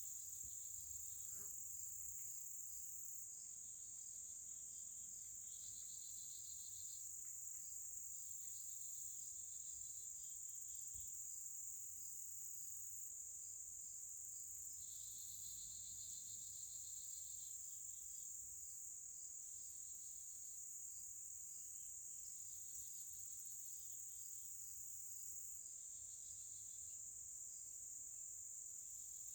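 Chorus of crickets or similar insects: one high, steady trill, with another pulsing chirp starting and stopping in bouts of a second or two.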